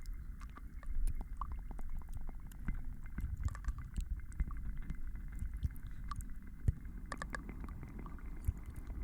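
Layered soft ASMR trigger sounds: many small irregular clicks and taps over a steady low rumble and a soft hiss.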